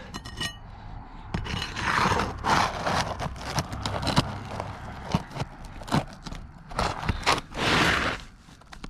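Hand tools scraping and knocking on asphalt roof shingles during a shingle repair: a run of sharp clicks and taps, with longer rough scrapes about two seconds in and again near the end.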